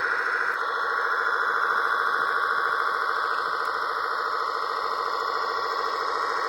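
Engine sound module of a radio-controlled model truck or tractor playing a simulated engine idling, a steady rapid chugging pulse that is thin and lacks deep bass.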